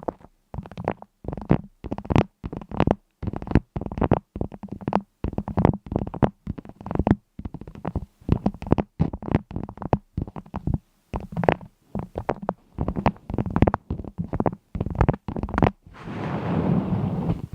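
A rapid, irregular series of short pops and clicks, several a second, with brief gaps between them.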